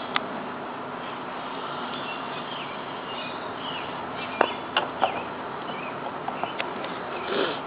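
Small birds chirping in short calls over a steady outdoor hiss, with a few sharp isolated clicks, the strongest a little over four seconds in.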